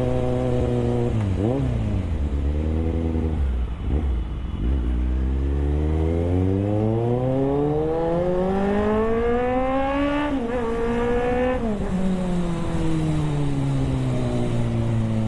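Superbike engine running at a steady cruise, then a quick throttle blip and a low stretch before it revs up in a long rising pull. About two-thirds through there is a brief dip as it shifts up; it climbs again, then drops back to a steady cruise.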